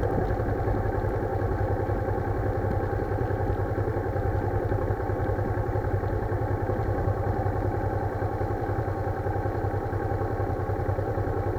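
Motorcycle engine running steadily, picked up by a camera mounted on the bike.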